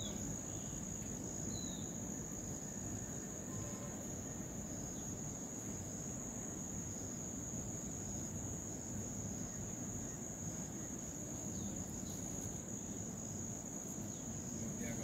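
Insects trilling steadily in one continuous high-pitched note, over a low background rumble.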